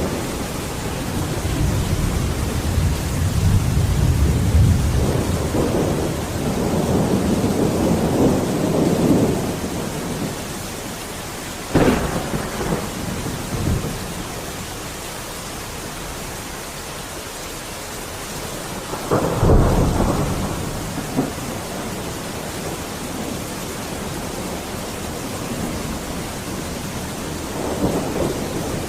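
Heavy rain falling steadily during a thunderstorm. Thunder rumbles low through the first several seconds, cracks sharply about twelve seconds in, claps loudly again with a rumble a little before the twenty-second mark, and swells once more near the end.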